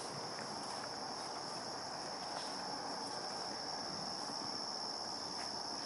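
A steady, high-pitched chorus of insects trilling continuously.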